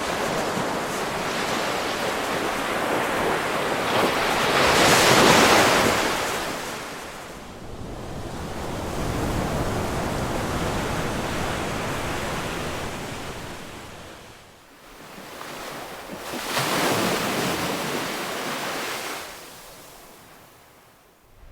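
Ocean surf: a steady wash of waves that swells and falls, with a big wave building to its loudest about five seconds in and another around seventeen seconds.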